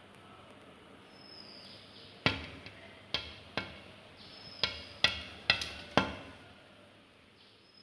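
A series of seven sharp knocks, each with a short ringing decay, irregularly spaced over about four seconds, with a faint short high whistle that falls slightly in pitch heard a few times between them.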